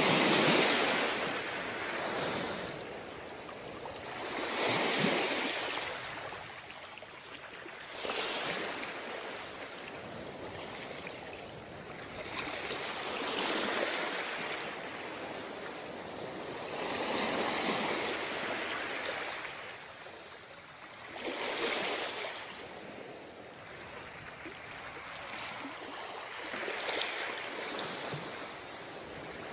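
Ocean surf breaking on the beach, wave after wave. Each wave is a rushing swell of noise a few seconds apart, and the first one is the loudest.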